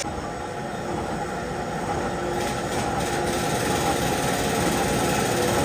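Steady din of factory machinery running, a continuous mechanical rumble and hiss with faint steady hums.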